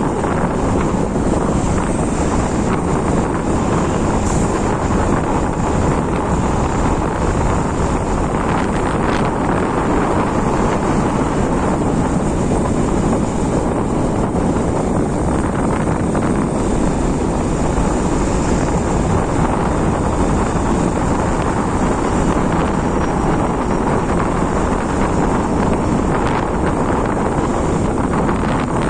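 Steady, loud wind rushing over the microphone on a moving motorbike, with the bike's running and road noise mixed in beneath.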